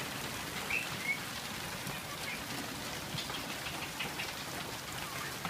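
Heavy hail falling in a steady, even patter. A couple of faint short chirps come about a second in.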